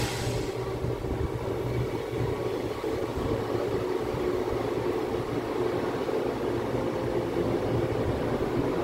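Passenger train rolling slowly into a station, a steady low rumble of the coach on the rails with a faint steady tone above it. There is a sharp click right at the start.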